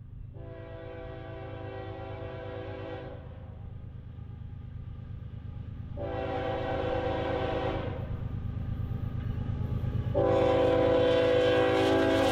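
CSX freight diesel locomotive's horn sounding three blasts: one of about three seconds, one of nearly two seconds, and a longer one starting near the end. Under the horn, the approaching train rumbles steadily and grows louder.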